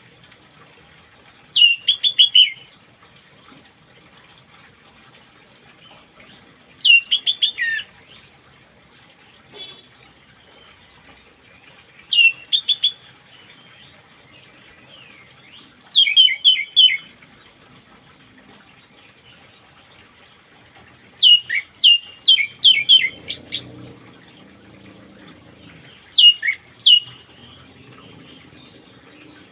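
Orange-headed thrush singing: short, quick phrases of sharp whistled notes, repeated about every five seconds over a faint steady hiss.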